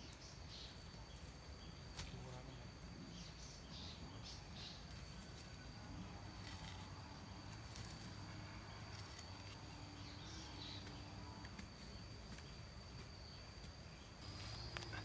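A steady, high-pitched insect trill, with a few faint taps, one about two seconds in.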